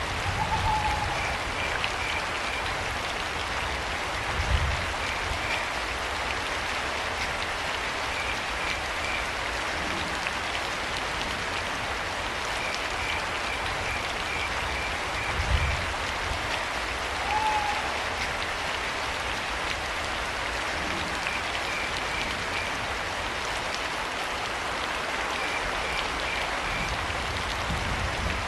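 Steady rain falling, with a cricket chirping in short trains of pulses every few seconds. A short curved call, an owl, comes twice, near the start and about halfway, and two low thumps stand out briefly.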